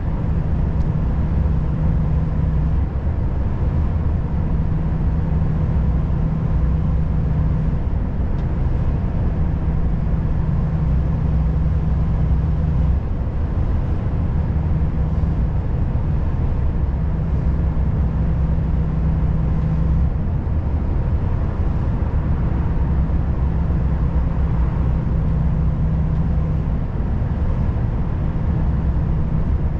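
Volvo FH540 truck's 13-litre six-cylinder diesel engine running with a steady low drone, a deeper hum in it coming and going every few seconds.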